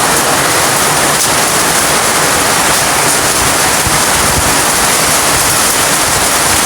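Heavy rain falling steadily: a loud, even downpour.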